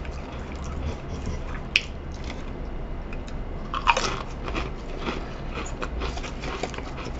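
Close-up crunching and chewing of a Pringles potato crisp, in a run of sharp crackles with the loudest crunches a little under two seconds in and about four seconds in.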